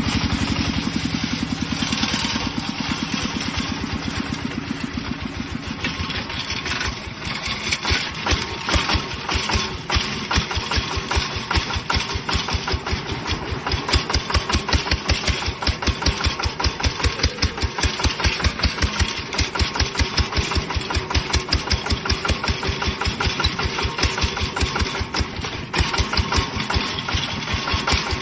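Mini tractor's single-cylinder diesel engine running. From about six seconds in it settles into a slower, even chugging, each firing stroke heard separately.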